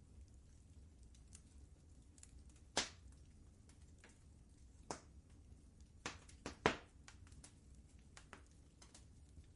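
Fireplace fire crackling: scattered sharp pops over a low steady rumble, the loudest a little under three seconds in and a quick cluster of pops around six to seven seconds in.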